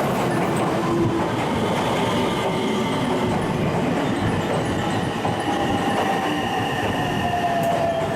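Electric train moving alongside the platform: a steady rumble of wheels on track, with a whine that slowly falls in pitch.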